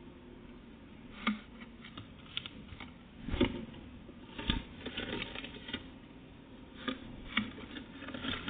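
Small birds pecking and hopping at a feeding spot: irregular light taps, with two duller knocks around the middle.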